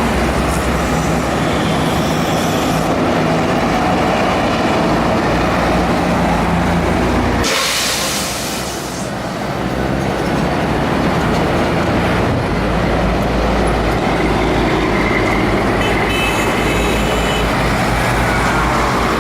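Heavy trucks running in street traffic, engines loud and steady, with a sharp hiss lasting about a second some eight seconds in.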